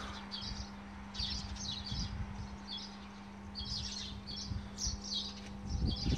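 Small birds chirping in short clusters of high notes, repeating every second or so, over a faint steady low hum that stops near the end.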